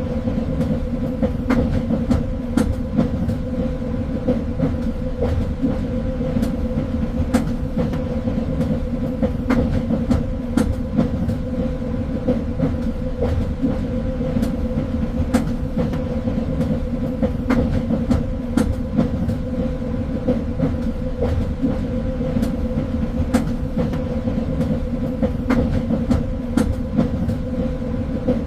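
Train running along the track: a steady low rumble with a constant hum, and frequent irregular clicks and knocks from the wheels over the rails.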